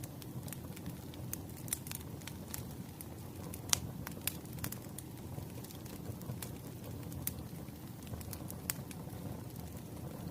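Firewood burning in a fireplace: a steady low rumble of flame with irregular sharp crackles and pops, the loudest pop a little under four seconds in.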